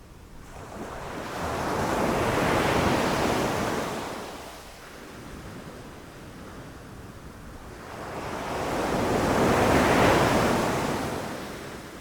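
Ocean waves rushing in and crashing: two swells of surf, each building and fading over several seconds, the first peaking about three seconds in and the second near the end.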